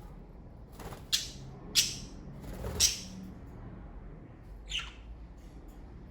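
Pet budgerigars (Australian parakeets) giving four short, sharp chirps, each dropping in pitch: three close together in the first few seconds and a fourth a couple of seconds later.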